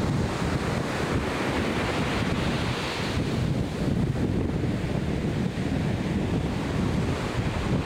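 Atlantic Ocean surf washing and breaking, with a swell of hiss about two to three seconds in, under heavy wind buffeting on the microphone.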